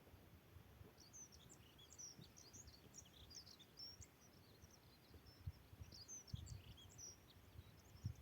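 Faint high-pitched chirping of small birds, a quick run of short notes that starts about a second in and carries on. A few soft low bumps sound underneath.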